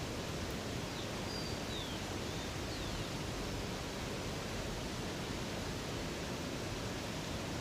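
Steady rush of running water from a river or cascade, an even hiss at a constant level. A few faint, short, high bird chirps come between about one and three seconds in.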